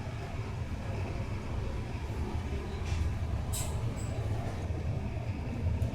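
Steady low rumble of a sleeper train running, with a brief high hiss about three and a half seconds in.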